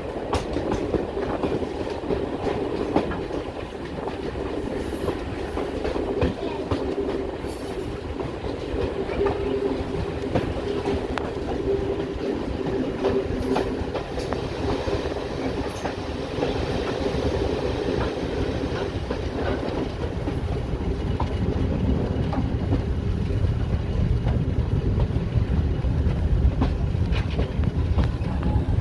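Diesel train running along heritage track: a steady engine drone under the repeated clickety-clack of wheels over rail joints, with the low rumble growing louder over the last several seconds.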